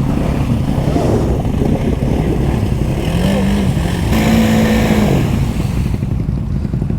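ATV engine revving hard as it pushes through a mud hole; the pitch climbs about three seconds in, holds high for a second, then drops back.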